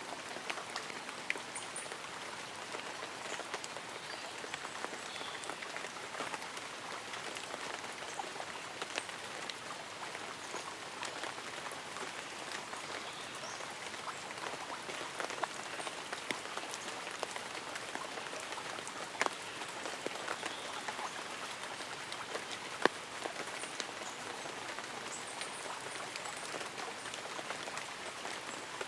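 Light rain pattering on leaves and an umbrella: a steady, dense patter of small drops, with a few louder single drops landing now and then.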